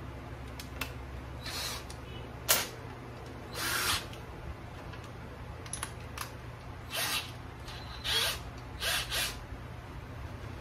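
Power drill run in several short bursts, each under a second. The sharpest and loudest burst comes about two and a half seconds in.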